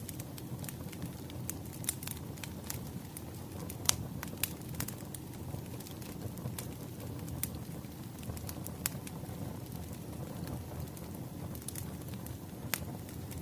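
Wood fire crackling: a steady low rush with scattered sharp pops and snaps, the loudest about four seconds in and near the end.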